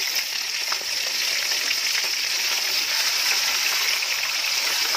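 Hot oil sizzling steadily as raw minced meat fries in a pan with browned sliced onions and whole spices, just after the mince has gone into the oil.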